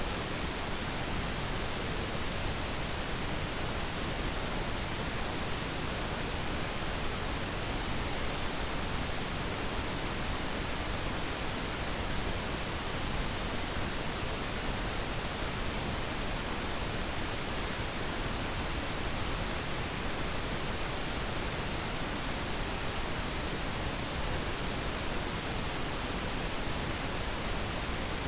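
Steady pink noise: an even, unchanging hiss with no other sounds in it.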